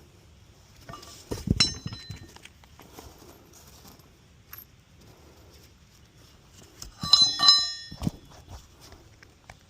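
Metal clinking with a brief bright ring, once about a second and a half in and again as a longer cluster of clinks around seven seconds in, amid faint handling noise.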